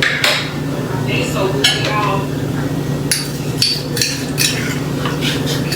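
Kitchen clatter of food preparation: dishes and utensils clinking and knocking on the counter in irregular sharp hits, over a steady low hum.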